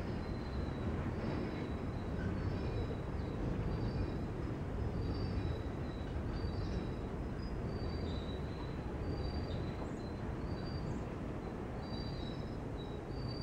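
Freight train rolling by: a steady rumble of wheels on rail, with faint short high-pitched squeals scattered throughout.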